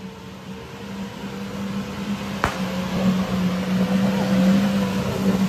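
A 4x4's engine drones steadily as it drives through a muddy puddle, growing steadily louder. A single sharp click comes about halfway through.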